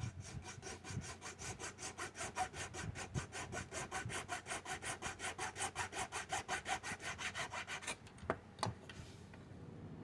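Small hand saw cutting the vents off a model part, in quick, even back-and-forth strokes that stop about eight seconds in, followed by a couple of light clicks.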